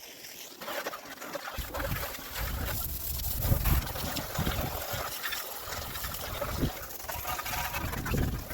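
Water spraying and splashing over an ATV being washed, an uneven rush of water with low rumbling gusts.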